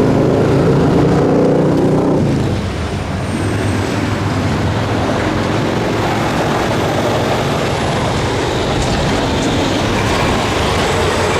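Heavy diesel engine running steadily with a low drone, dipping briefly about two and a half seconds in before settling back.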